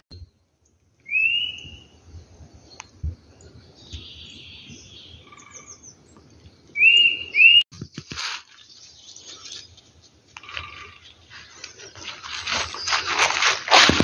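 A bird's short rising chirps, one about a second in and two close together about halfway through. After that comes a rustling, crunching sound of footsteps through undergrowth, growing louder near the end.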